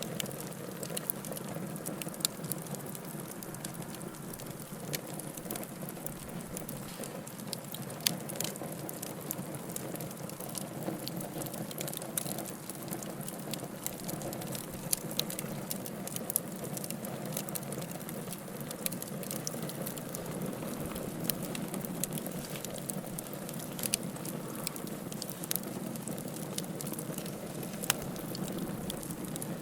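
Wood fire of burning logs crackling, with a steady low rush of flame and frequent irregular pops and snaps, one sharper snap about 8 s in.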